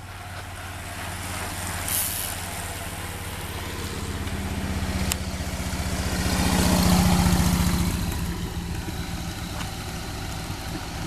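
A motor vehicle engine running steadily at a low hum, with a swell of louder road noise that peaks about seven seconds in and then fades, as of something passing close by. A single sharp click sounds about five seconds in.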